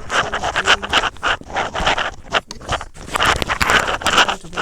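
Rustling and scraping of drone packaging being handled, in a quick irregular run of crackles.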